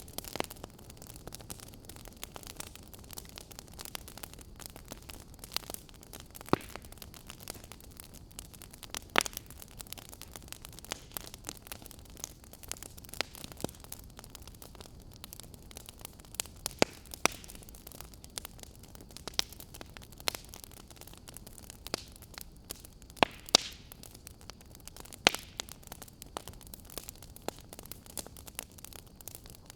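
Fire crackling in a fireplace: a steady soft hiss with irregular sharp pops, a handful of them much louder than the rest.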